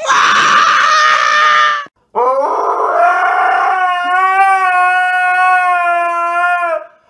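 Husky howling: one long drawn-out howl that rises at first, then holds steady for about five seconds. It is preceded by a shorter, harsher cry in the first two seconds.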